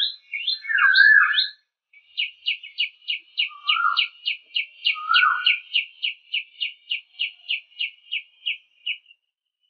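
A songbird singing: a varied phrase of whistled notes, then a fast, even run of short repeated notes, about four a second, with two lower slurred notes in between, stopping shortly before the end.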